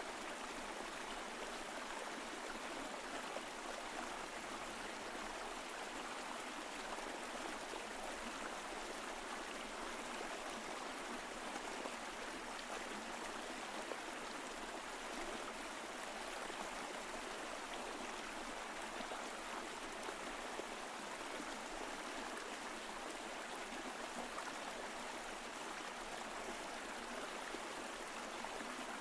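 Mountain stream flowing over rocks: a steady rush of running water with light gurgling, unchanging throughout.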